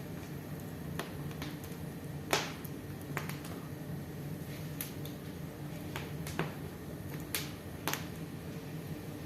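Wood fire crackling in a fireplace: scattered sharp pops at irregular intervals, the loudest a little over two seconds in, over a steady low hum.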